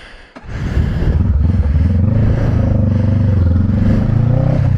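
Motorcycle engine catching about half a second in and then running steadily with a slight rise in revs.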